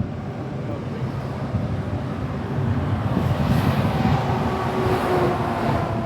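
Low, steady vehicle engine rumble that grows louder about halfway through.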